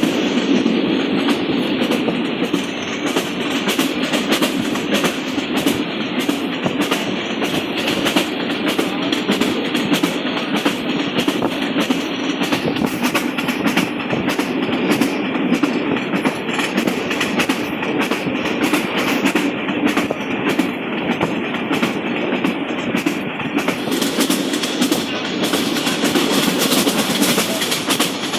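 Rangpur Express passenger train running along the track: a steady rumble with the clatter of wheels over the rails throughout.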